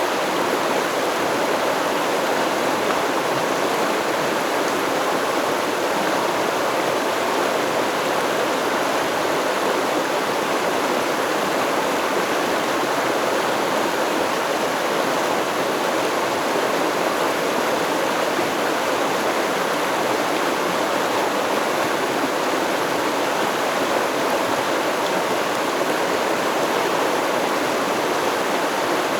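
Flowing stream: a steady rush and babble of water, unchanging throughout.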